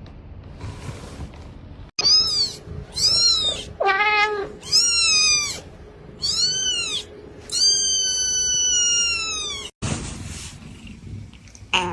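Domestic cat meowing repeatedly: about six meows, the last a long drawn-out one lasting about two seconds.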